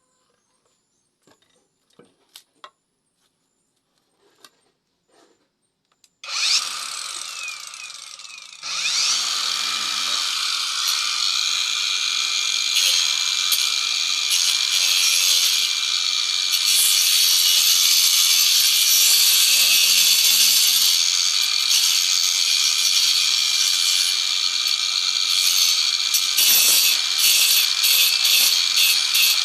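A few light taps, then about six seconds in an electric power tool starts and runs steadily on wood, cutting or sanding it to shape. It gets louder once more about two seconds after starting.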